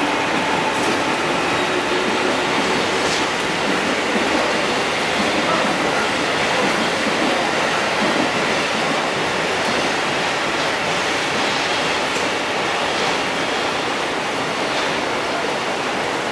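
JR Central 371 series electric train rolling slowly over station pointwork, its wheels giving a scattered click now and then over rail joints and switches, against a steady hiss of rain.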